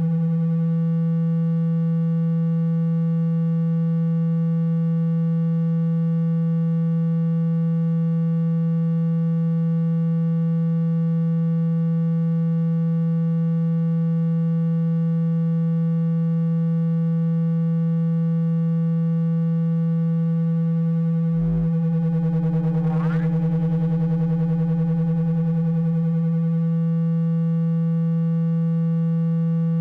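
Water-ejection tone for a phone speaker: a steady low electronic tone with a stack of overtones, meant to vibrate the speaker cone and shake water out. About two-thirds of the way through there is a brief click, then a quick rising sweep, and the steady tone carries on.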